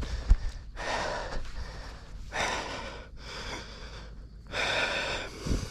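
A man breathing heavily and gasping close to the microphone, several deep breaths in a row, out of breath and shaken with excitement.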